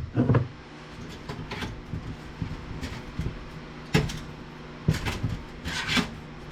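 Sheet-metal cover of a VCR/DVD combo unit being handled and worked loose by hand: scattered clicks and rattles, a sharp knock about four seconds in, and a short scrape near the end.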